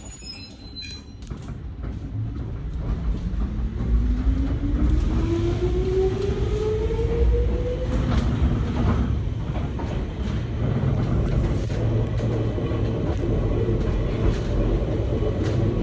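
Nankai 2200-series train pulling away from a station, heard from inside the car. A whine climbs steadily in pitch for about six seconds as the train accelerates, then gives way to a steady low rumble of wheels on rail.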